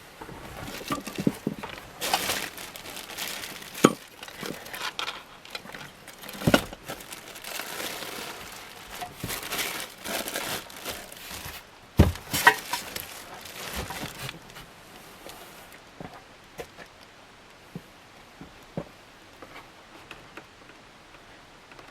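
Packaging and parts being handled: crinkling and rustling with scattered light knocks and clicks, busy for the first three quarters, then only a few faint ticks.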